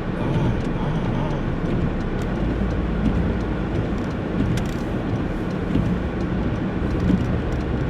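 Steady rumble of a car driving on a snowy road, engine and tyre noise heard inside the cabin, with a few faint ticks.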